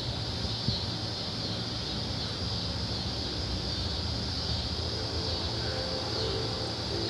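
Steady outdoor ambience under a stormy sky: a constant high-pitched drone over a low rumble of wind on the microphone.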